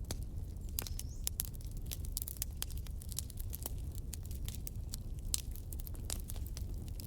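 Wood fire in a fireplace crackling, with irregular sharp pops and snaps over a steady low rumble, and a brief rising whistle about a second in.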